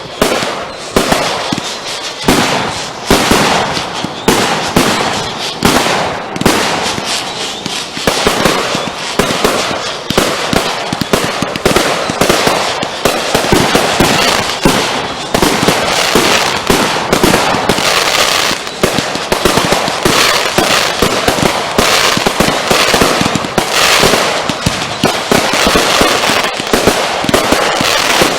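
Consumer fireworks going off in a continuous rapid barrage: many sharp bangs a second over steady crackling, with no break.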